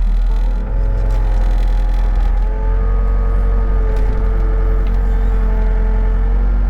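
Excavator's diesel engine running with a steady hydraulic whine as the machine works, the whine shifting pitch about half a second and two and a half seconds in.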